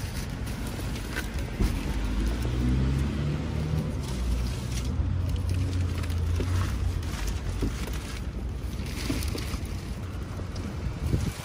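Low rumble of a car engine running close by, loudest through the middle, with the rustle and crinkle of newspaper-wrapped flower bundles being loaded into a car boot.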